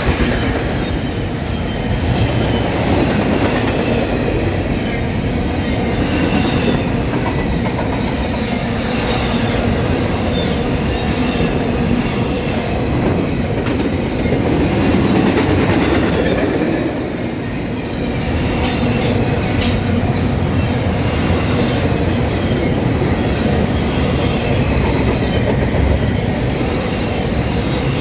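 Norfolk Southern train rolling past with a steady rumble, its wheels clicking irregularly over the rail joints. The rumble dips briefly a little past the middle.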